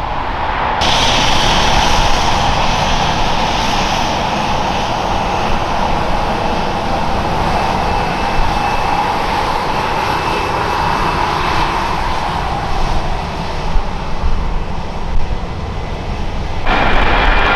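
Jet airliner engines at close range, a loud steady rush with a faint high whine in it. The sound changes abruptly about a second in and again near the end.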